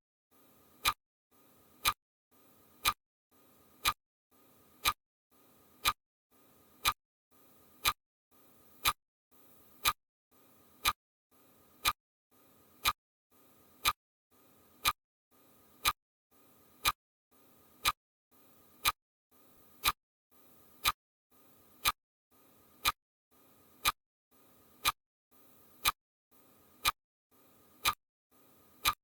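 A sharp tick repeating evenly about once a second, with a faint hiss between the ticks.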